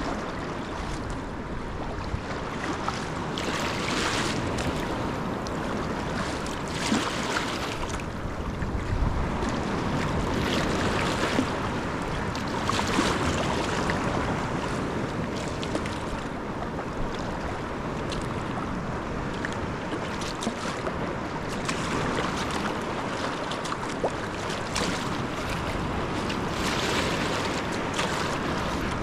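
Wind on the microphone over sea water washing and lapping around a sea kayak, with a brief swish of water every few seconds.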